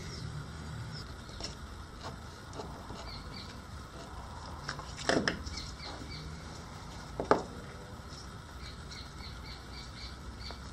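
Small birds chirping faintly and repeatedly, with two short, sharp squeaks about five and seven seconds in.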